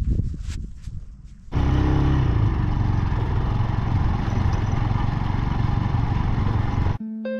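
A little clattering, then a motorcycle running loudly from about a second and a half in, setting off on the road; it cuts off abruptly near the end.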